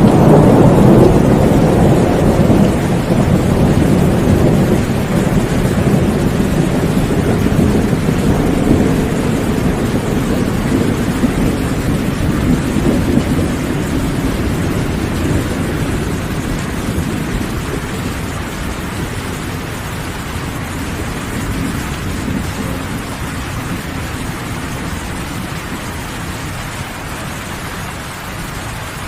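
Thunderstorm: a long rolling rumble of thunder, loudest at the start and slowly dying away over about twenty seconds, over steady heavy rain.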